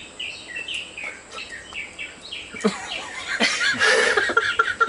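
Birds chirping, with louder, busier calling from about three seconds in.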